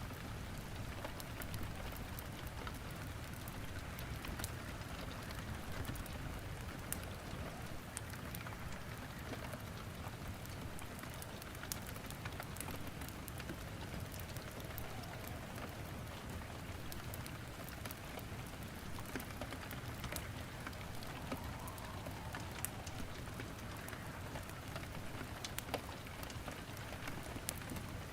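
Steady rain mixed with a wood fire crackling in a fireplace: an even hiss of rain with scattered sharp pops and snaps throughout.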